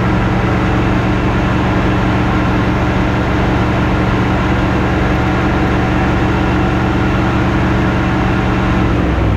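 Tucker Sno-Cat's engine running steadily at a constant speed, with a low even note; the note shifts just before the end.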